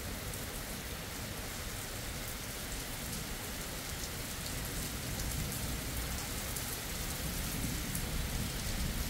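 Steady heavy rain falling on a wet road and ground, with fine drop patter throughout. A low rumble of thunder grows stronger from about halfway through.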